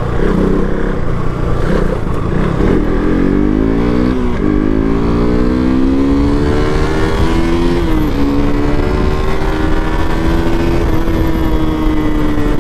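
KTM RC 200's single-cylinder engine accelerating hard through the gears: the revs climb, drop at an upshift about four seconds in, climb again and drop at a second upshift near eight seconds, then hold steady at cruising speed.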